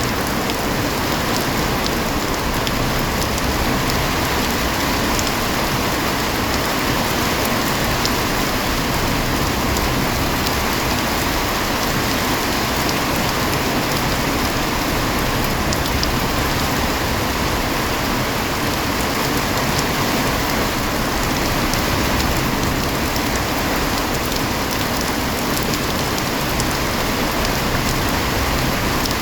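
Heavy rain falling steadily, an even hiss with scattered sharp ticks of individual drops.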